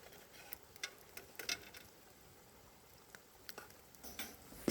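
A handful of faint, irregular pops and crackles from cooking over an open fire.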